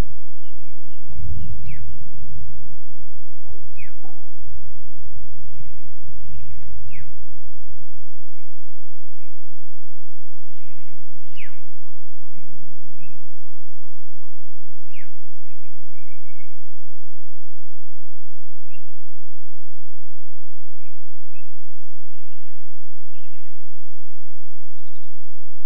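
Savanna ambience of several birds calling in short chirps and whistles, some sliding down in pitch, with a quick run of short even notes near the middle. A steady low rumble lies underneath.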